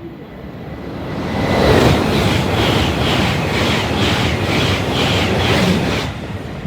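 LNER Class 801 Azuma electric train passing non-stop at speed. A rising rush as it approaches is followed by a loud rush of air and wheels with a regular beat of about two or three pulses a second, which cuts off suddenly about six seconds in.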